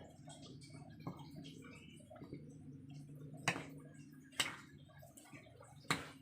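Raw chicken pieces being mixed by hand in a wet flour-and-cornstarch batter, squishing, with a few sharp clicks against the bowl, the loudest about halfway through. A steady low hum runs underneath.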